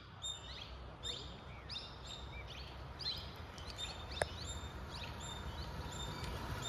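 Small birds chirping: short, high, rising and falling calls repeated two or three times a second, over a low steady rumble, with a single sharp click about four seconds in.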